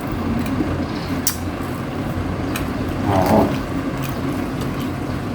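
Eating sounds of rotisserie chicken being handled and chewed: a few soft clicks and a short wet sound about three seconds in, over a steady low hum.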